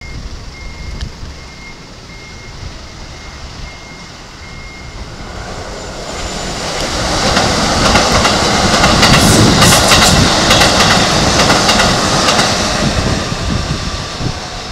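Keikyu 1500 series six-car electric train passing close by. The rumble builds from about five seconds in, is loudest in the middle with rapid wheel clicks over the rail joints, and fades near the end.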